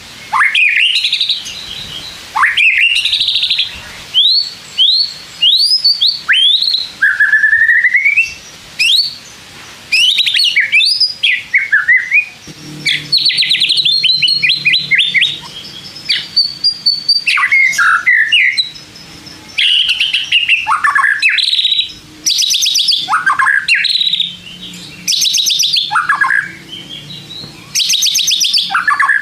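White-rumped shama singing a varied song: loud rising and swooping whistles with short pauses between phrases, and rapid rattling phrases in the later part.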